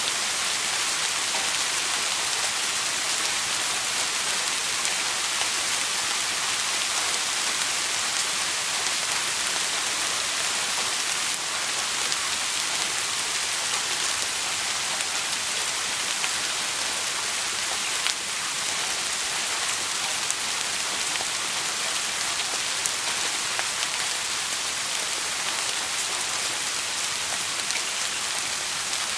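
Steady heavy rain falling on a surface, an even hiss dotted with faint individual drop ticks.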